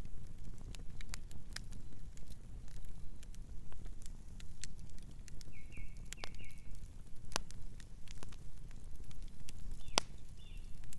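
Wood fire crackling: irregular sharp pops and snaps over a steady low rumble, with one louder pop near the end. A bird chirps in short falling notes about six seconds in and again near the end.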